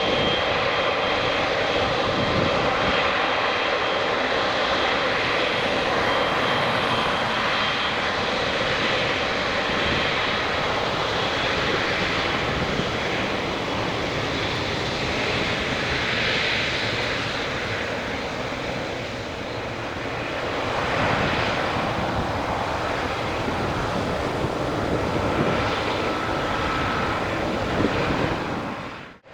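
Boeing 777-300ER's GE90 turbofan engines at takeoff thrust: a loud, steady jet roar that eases a little and swells again, then cuts off abruptly near the end.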